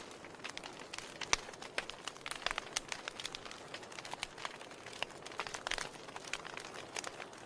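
Wood fire in a fireplace crackling: irregular sharp pops and snaps, several a second, over a soft hiss, with a louder pop about a second in.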